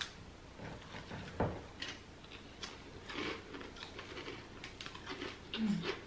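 Chewing and faint crunching of a crispy tempe cracker, with small clicks of fingers picking food off a plate.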